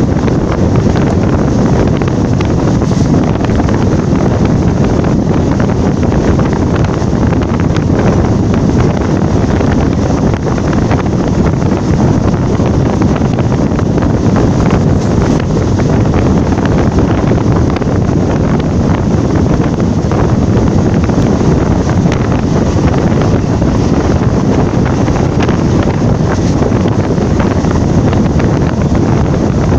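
Steady, loud wind buffeting the microphone over the running noise of a moving passenger train.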